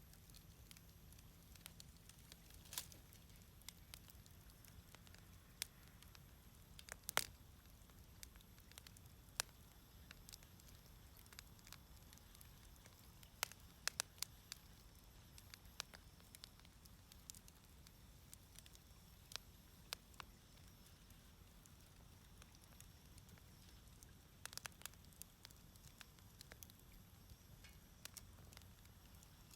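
Wood fire crackling: sparse sharp pops and snaps, the loudest about seven seconds in, over a faint low rumble.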